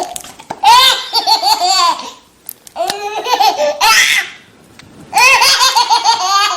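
High-pitched human laughter in three loud bursts of quick rising and falling "ha" sounds, with short pauses between them.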